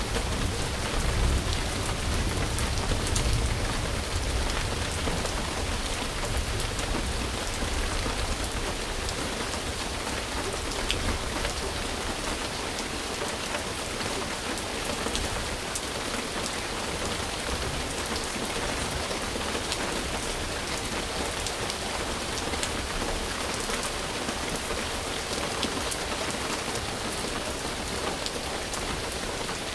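Steady rain falling on surfaces, a dense even hiss with scattered ticks of individual drops. A low rumble, distant thunder, is strong at the start and dies away over the first ten seconds or so.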